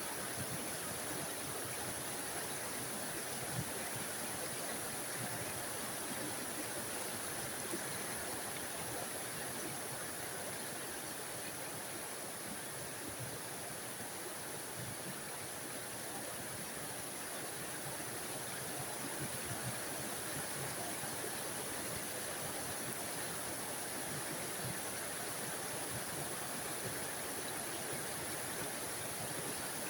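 Small forest waterfall: water splashing and rushing steadily over rocks, an even hiss with a bright high edge.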